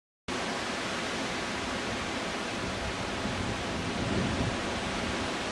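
Heavy rain falling in a steady hiss during a severe thunderstorm, with low wind buffeting on the microphone building near the end.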